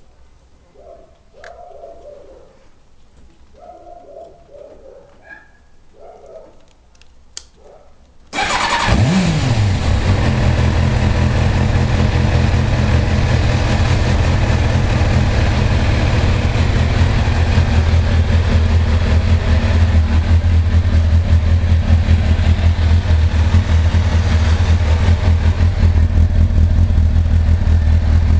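Kawasaki ZX-6R's inline-four engine starting from cold about eight seconds in. It gives a short rev that falls away, then settles into a steady idle.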